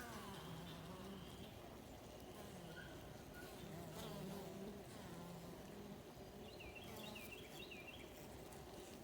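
Honey bees buzzing, a faint steady hum that wavers slightly in pitch as the bees fly about.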